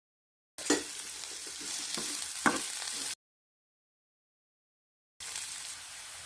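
Sliced onions sizzling in hot coconut oil in a pan while being stirred, with a few sharp clicks of the spatula against the pan. The sound cuts out completely twice.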